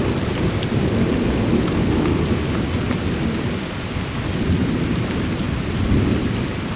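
Rolling thunder, a low continuous rumble that swells and fades with no sharp crack, over steady rain.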